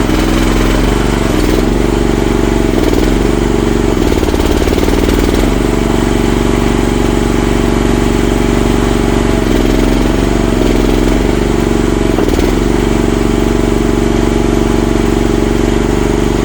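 CFG MX15RX mini excavator's engine running steadily, its pitch dipping and recovering briefly a few times.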